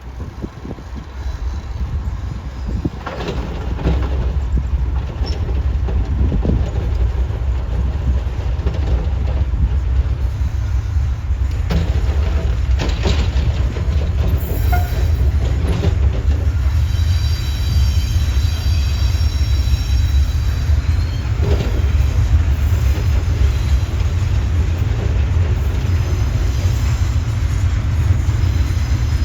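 Freight train with container wagons rolling past, a steady heavy rumble of wheels on rail that builds over the first few seconds. A few sharp clanks come through, and a high wheel squeal rings out for several seconds in the middle.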